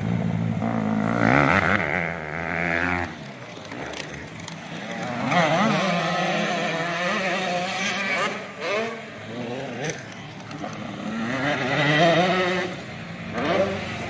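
Several 85cc two-stroke motocross bikes racing, their engines revving up and down as they pass, with overlapping rising and falling engine notes that swell about five seconds in and again near the end.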